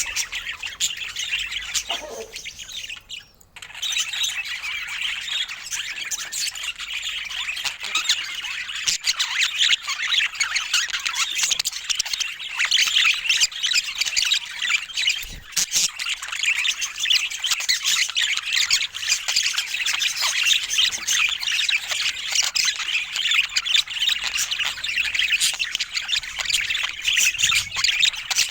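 Budgerigars chattering: a dense, continuous stream of fast high-pitched chirps and squawks, with a brief lull about three seconds in.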